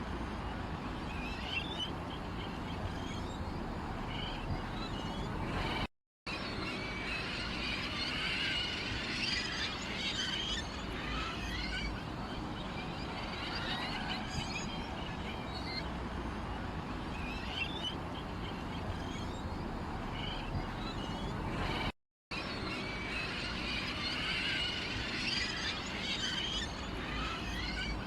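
A flock of sparrows chirping busily and continuously, over a steady low background hum. The sound cuts out completely twice for a moment.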